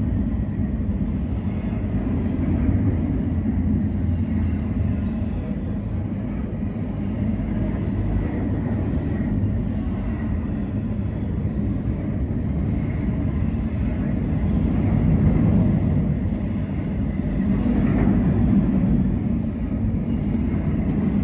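Train passing on the tracks below a footbridge: a steady low rumble of rolling wheels and cars, swelling a little about fifteen and eighteen seconds in.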